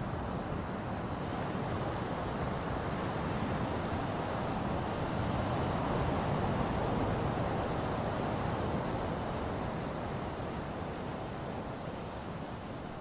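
Ocean surf: a steady rush of waves that swells to a peak about halfway through and eases off toward the end.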